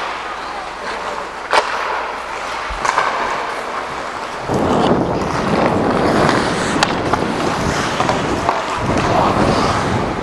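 Ice skate blades scraping and carving across the ice, much louder and busier from about four and a half seconds in, with a few sharp clacks.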